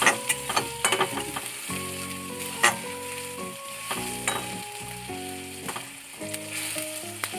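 Tomato, spices and ginger paste sizzling as they fry in mustard oil in a metal kadai. A spatula scrapes and clicks against the pan as the mixture is stirred.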